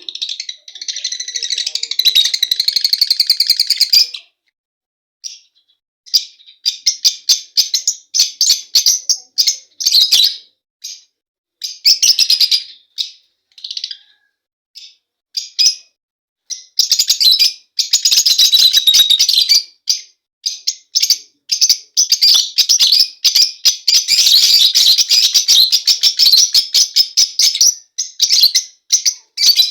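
Pet lovebirds chattering in rapid, high-pitched bouts of chirps with short pauses between them, running unbroken through most of the second half.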